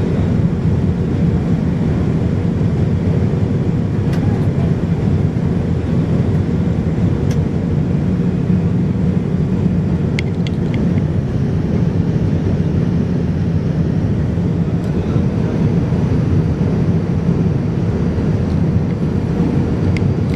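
Steady jet airliner cabin noise aboard a Boeing 787-9 Dreamliner in flight: an even, unbroken engine and airflow rumble with a faint hum, and a few light clicks about halfway through.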